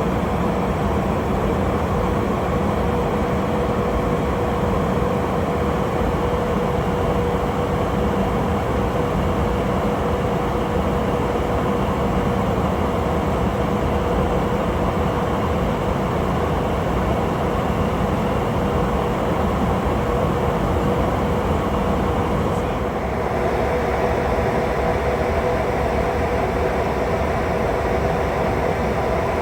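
KC-135 Stratotanker's jet engines running in a steady, unbroken drone with a constant hum, changing slightly in tone about two-thirds of the way through.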